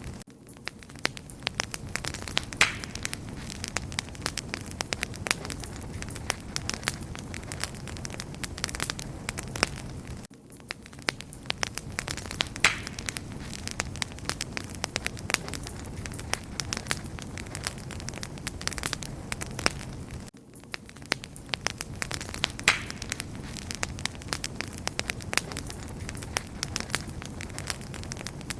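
Wood fire crackling, with many sharp pops and snaps over a low steady rumble. The level dips briefly about every ten seconds, where the same stretch of crackling seems to repeat.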